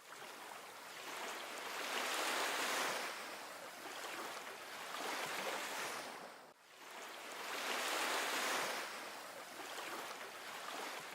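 Sea waves breaking and washing on the shore, the hiss of surf swelling and fading every few seconds, with a sudden break about two-thirds of the way through.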